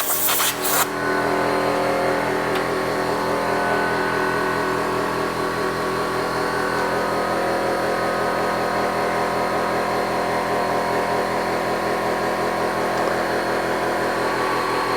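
Air hissing for under a second, then a steady electric motor running: a workshop machine, not the tractor's engine, which is not running.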